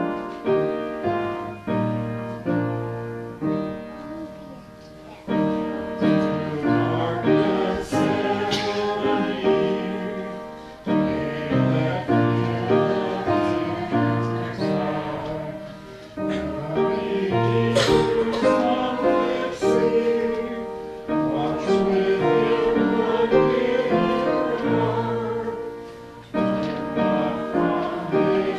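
Piano playing, joined about five seconds in by voices singing a song with piano accompaniment.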